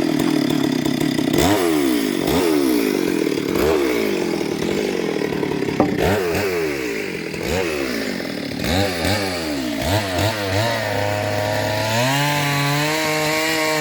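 Chainsaw cutting wood, the engine revving up and dropping back about once a second. Near the end it holds a steadier pitch.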